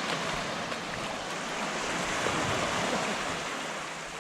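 Surf washing onto a sandy beach: a steady hiss of breaking water that swells through the middle and eases off near the end.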